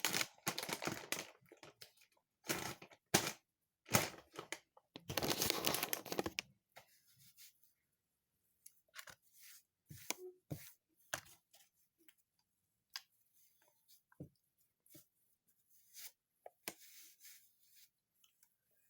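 Rustling and tearing noises, like packaging being crumpled and handled, in loud bursts for about the first six seconds, followed by scattered faint clicks and taps.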